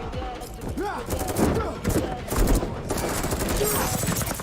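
Rapid automatic gunfire in fast rattling bursts, about a second and a half in and again later, over the dense rumble of a film car-chase sound mix.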